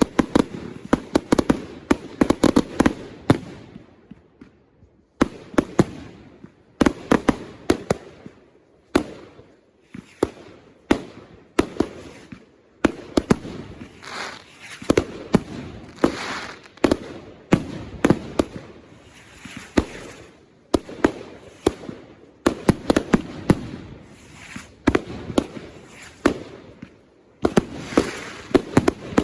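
Consumer fireworks going off in rapid volleys of sharp bangs, in bursts a second or two long with short lulls between them.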